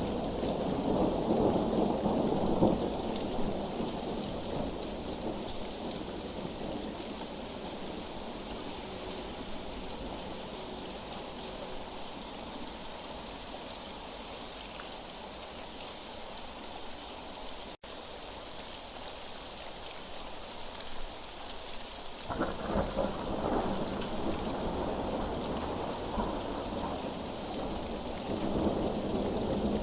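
Steady rain with rolling thunder. The deep rumble is strong at first, dies down, then swells again suddenly later on. There is one split-second gap in the sound a little past halfway.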